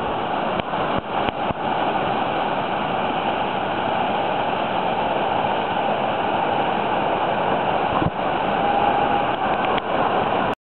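Steady rush of whitewater rapids on the Arkansas River at high flow. It cuts off abruptly near the end.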